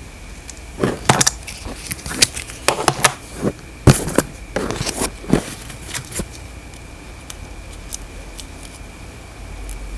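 Handling noises: a quick run of clicks, scrapes and crackles over about five seconds, like packaging or a small plastic device being handled or cut, then quieter with a faint steady high whine underneath.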